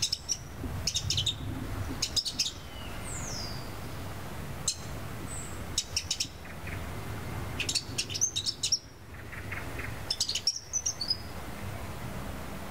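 Birds chirping in short clusters of quick high notes every second or two. About three seconds in comes a single high whistle falling in pitch. Underneath runs a low steady rumble.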